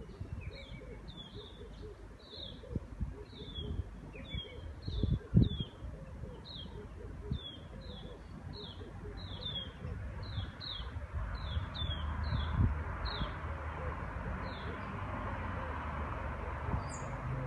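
A bird repeats a short, high, falling chirp about twice a second, stopping a little before the end. Underneath is a low, uneven rumble with its loudest bump about five seconds in. Near the end comes a quick run of very high ticks.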